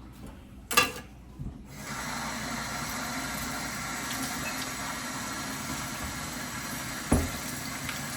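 Kitchen tap turned on, running steadily into a sink from about two seconds in, with a sharp knock before it starts and another knock near the end.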